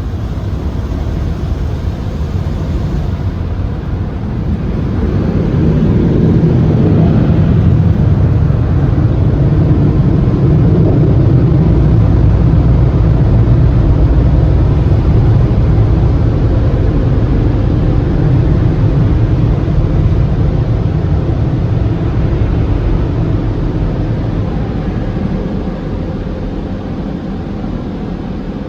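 Automatic tunnel car wash equipment working over a car, heard from inside it as a loud, steady, deep rushing. It builds about five seconds in and fades over the last several seconds.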